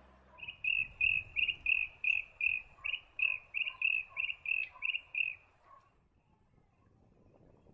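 A bird calling: a run of about fourteen short, clipped notes, about three a second, that stops a little past halfway.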